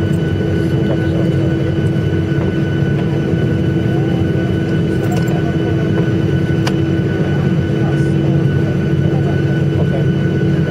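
Steady engine rumble and hum inside the cabin of an airliner on the ground after landing, with a constant whine above it.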